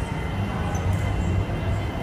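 Airport people-mover train pulling into the platform behind glass platform screen doors: a low rumble that comes up at the start and holds.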